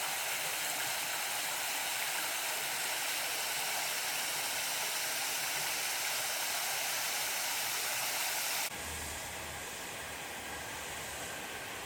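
Small garden waterfall splashing and rushing steadily. About nine seconds in, the sound cuts abruptly to a quieter, duller rushing with a low rumble underneath.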